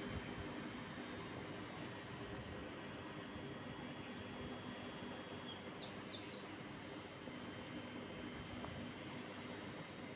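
A songbird singing: several bursts of rapid, high, repeated chirps and trills over a steady background hum.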